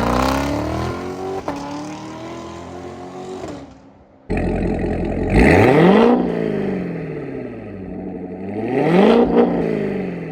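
C7 Corvette Z06's supercharged 6.2-litre LT4 V8 running through a Corsa Extreme axle-back exhaust and X-pipe, in two cut-together clips. In the first, engine speed climbs slowly and then fades. After a short break the engine fires with a sudden loud start and a sharp rev flare that settles back, and near the end it revs up once and drops again.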